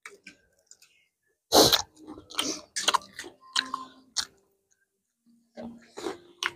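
People chewing and biting into tawa-fried chicken wings, in irregular spurts of crunchy, clicky mouth sounds, the loudest about a second and a half in, with a short lull past the middle.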